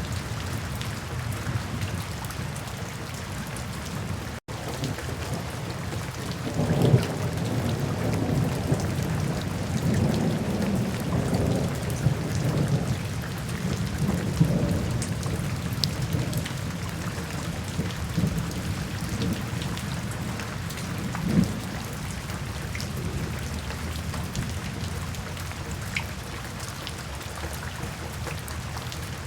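Steady rain falling, with low rolling thunder that swells about a quarter of the way in, rumbles on for several seconds and fades, and one shorter rumble later. The sound drops out for a split second near the start.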